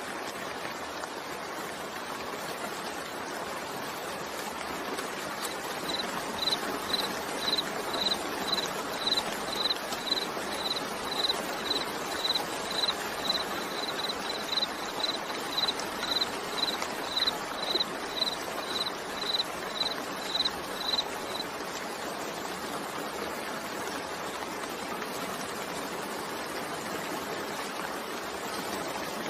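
Steady rain falling. About six seconds in, a run of short high-pitched chirps starts, evenly spaced about twice a second, and stops after some fifteen seconds.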